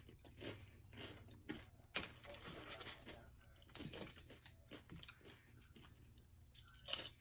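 A person chewing and crunching Doritos nachos close to the microphone, with irregular crisp crunches of the tortilla chips.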